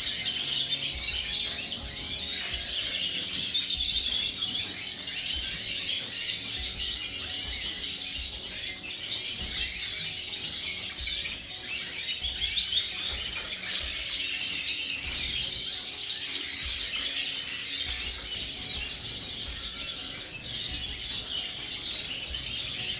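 Many caged canaries and small finches, siskins and redpolls among them, chirping and twittering together in a dense, steady chatter.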